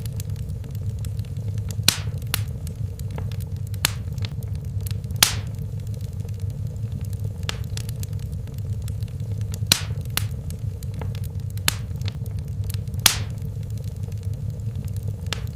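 Wood fire in a fireplace burning with a steady low rumble, broken by sharp irregular crackles and pops, a handful of them louder.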